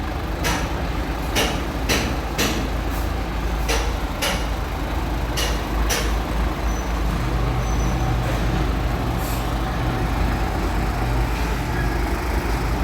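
Heavy truck diesel engine running steadily, with several sharp knocks or clicks over the first six seconds.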